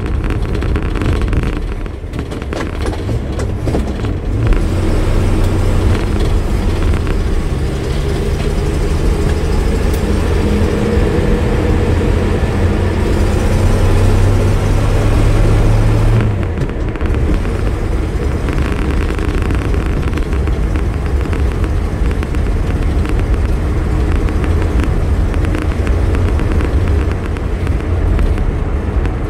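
Vauxhall PC Cresta's straight-six engine running under way, with road noise, heard from inside the cabin. The engine note climbs steadily from about eight seconds in as the car gathers speed, then drops suddenly at about sixteen seconds.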